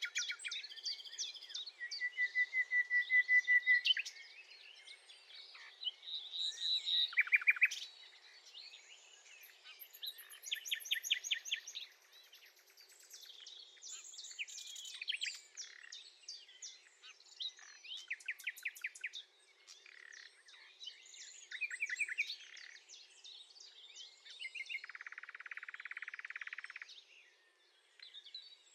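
Common nightingale singing: a rich run of varied phrases with fast trills and repeated notes. One series of piping notes grows louder about two seconds in, and a buzzy rattle comes near the end.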